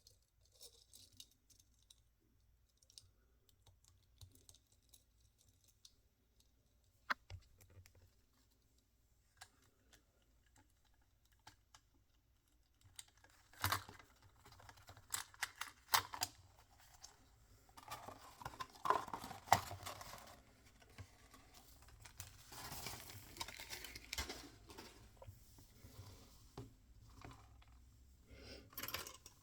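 Hands opening small toy packaging: scattered light clicks and taps, growing busier and louder about halfway through, with stretches of rustling.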